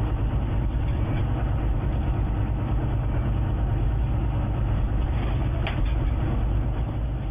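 Steady rumble of a moving train heard inside the driver's cab, with one brief sharp click about five and a half seconds in; the sound begins to fade right at the end.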